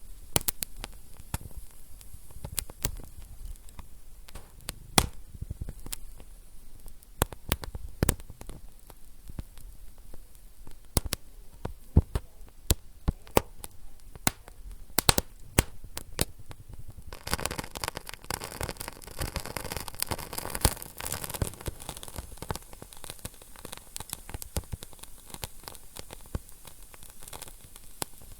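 Wood fire crackling in a fireplace: irregular sharp pops and snaps over a soft hiss. From about two-thirds of the way through, the hiss thickens into a denser sizzling crackle.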